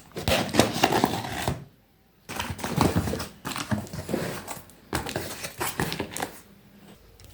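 Rustling and crinkling of packaging with irregular knocks and clinks as a mixer grinder and its parts are handled and taken out of the box, in three stretches with a brief pause about two seconds in.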